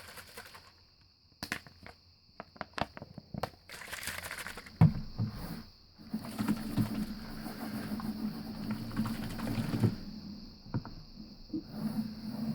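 Bottles being handled and played for their sounds: a run of sharp clicks and taps, a hard knock about five seconds in, then about four seconds of steady rubbing or rattling noise, with a few more knocks near the end.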